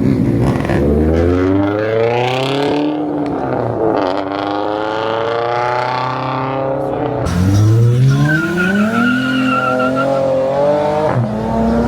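A car engine accelerating hard through the gears. The pitch climbs, falls back at a shift about four seconds in and again about seven seconds in, then climbs and holds before easing off near the end.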